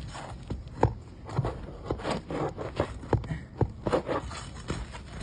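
Tool scraping and prying under asphalt shingles to work the roofing nails loose, with irregular sharp knocks and scrapes.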